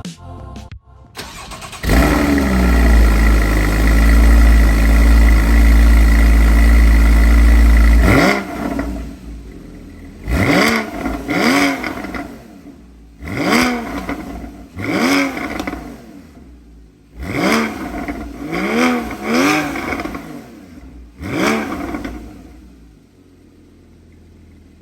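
Porsche 981 Cayman S flat-six engine heard through a sport exhaust whose mufflers have been reworked inside with stainless steel. About two seconds in it catches with a loud flare and runs at a steady fast idle. Then comes a series of about eight sharp throttle blips, each rising and falling back, with quieter idling between them, fading near the end.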